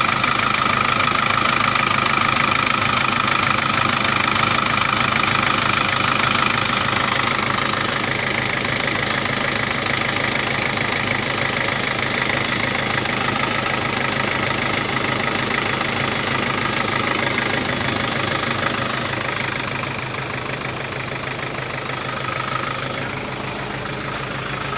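A vehicle engine idling steadily, with a high whine that is strongest for the first eight seconds or so and then fades back. The engine has been overheating and losing coolant.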